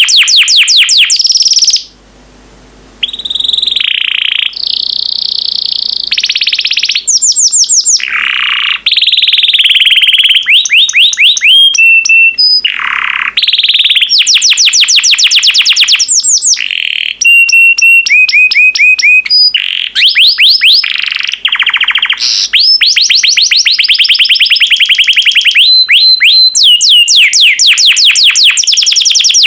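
Yellow domestic canary singing a long, loud song of fast trills: runs of rapidly repeated sweeping notes alternating with short held whistles. It breaks off for about a second near the start.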